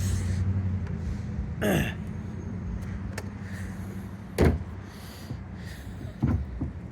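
Garbage truck engine running steadily, with a short falling squeal about two seconds in and a sharp knock about four and a half seconds in.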